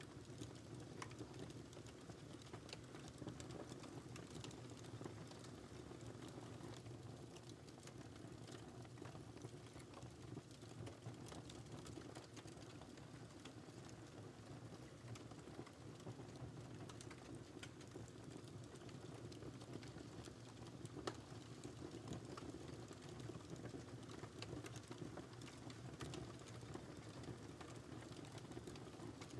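Wood fire crackling in a fireplace: irregular small pops and snaps over a low steady rumble of flame, with one sharper pop about twenty seconds in.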